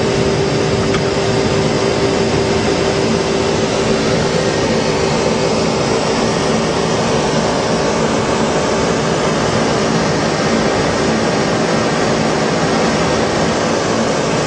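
Steady flight-deck noise of a Boeing 747 in the climb: an even rush of airflow and air-conditioning with a low, steady hum under it.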